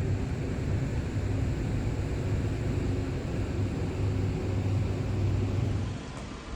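Passenger ferry's diesel engine running with a steady low drone over rushing noise, dropping off slightly near the end.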